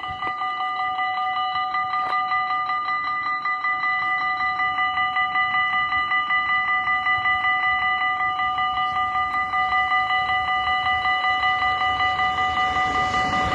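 Dutch level-crossing warning bells ringing continuously in a fast, even beat of about three strokes a second, signalling that a train is coming.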